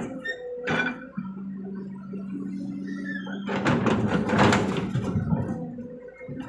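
Kobelco SK200 excavator's diesel engine running steadily, with a sharp knock just under a second in. About four seconds in, a louder noisy rush lasts a second and a half.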